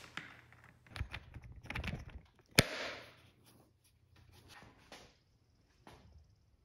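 A series of knocks and clicks, with one sharp, loud crack about two and a half seconds in, followed by a brief rushing noise.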